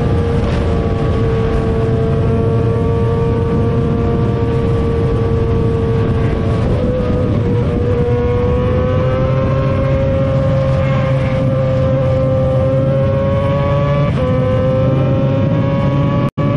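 Yamaha R15 V3's single-cylinder engine running at steady high revs on the move, its pitch creeping slowly upward, over a low rushing noise. The sound cuts out for an instant near the end.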